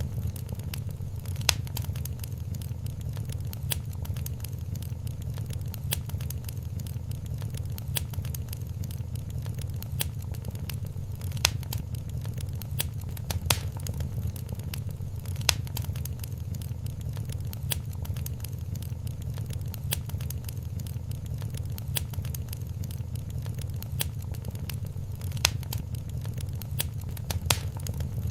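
Wood fire in a fireplace crackling: a steady low rumble under irregular sharp pops and snaps, a few of them louder.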